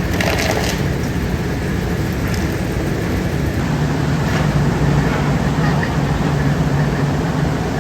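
Steady drone of factory machinery running, with a strong low hum and a few faint clicks about half a second in.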